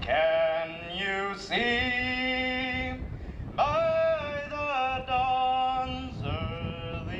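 A voice singing a few long, drawn-out notes.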